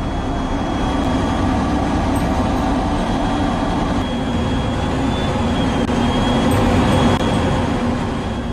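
Jet engine running: a steady rumble with a thin high whine, growing slightly louder toward the end.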